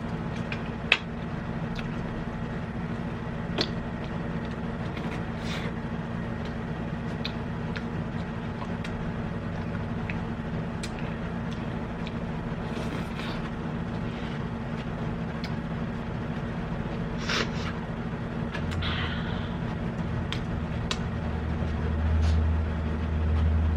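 Eating sounds over a steady background hum: scattered short clicks and taps of food and utensils, with a low rumble swelling in the last few seconds.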